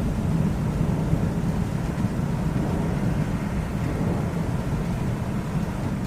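Low, steady rumble of rolling thunder, with no sharp crack.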